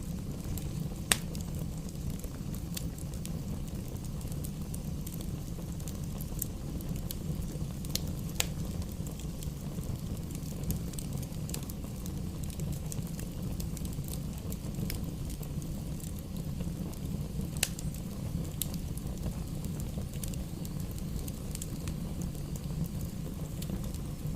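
Campfire burning with a steady low roar and a few sharp crackles and pops, the loudest about a second in.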